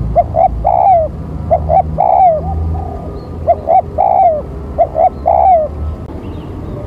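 Spotted dove cooing: four phrases, about one every second and a half, each of two short coos and a longer falling 'croo'.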